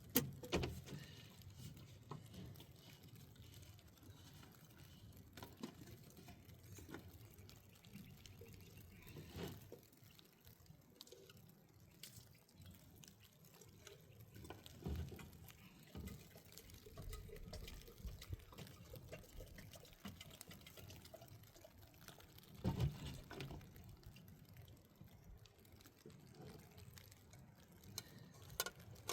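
Faint liquid sounds, water dripping and being poured, among scattered small knocks of handling.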